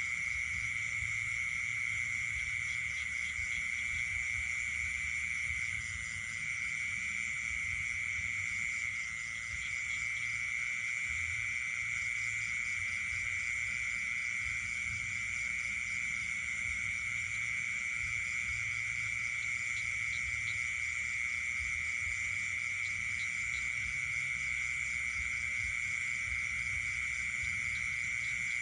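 Night chorus of frogs and insects calling together: a steady high trill that never lets up, with fainter rapid pulsing calls above it.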